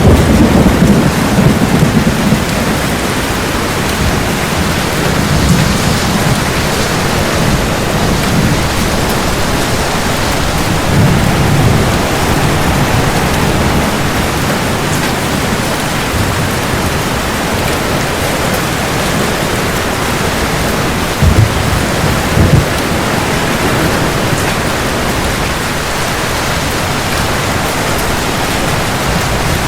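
Steady heavy rain falling, with low thunder rumbles swelling at the start and again about a third of the way in. Two short, sharp low knocks come about two-thirds of the way through.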